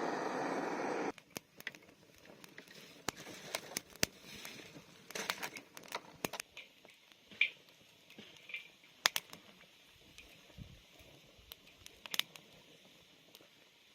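Wood campfire crackling faintly, with scattered sharp pops and clicks. A louder steady hiss cuts off abruptly about a second in.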